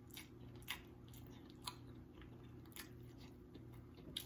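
Faint chewing of a mouthful of hamburger with the mouth closed: a few soft, wet mouth clicks about a second apart over a low room hum.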